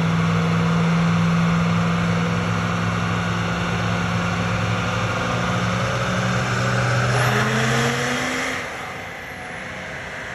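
Diesel pickup truck making a pull on a chassis dyno, strapped down and under load. It runs loud and steady, with a rising whine about seven seconds in, and lets off about a second later.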